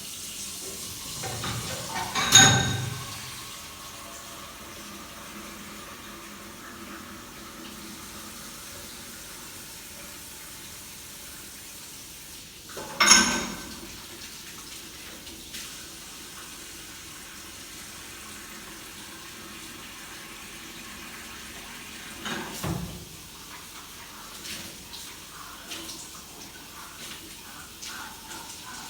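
Steady hiss of running water, broken by three loud knocks about ten seconds apart, with a few lighter taps near the end.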